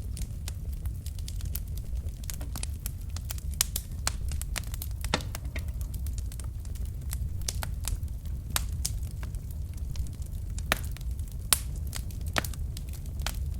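Wood fire burning in a fireplace: a steady low rumble of flames with frequent sharp crackles and pops from the logs, the loudest pops coming at about three and a half seconds and again about a second before the end.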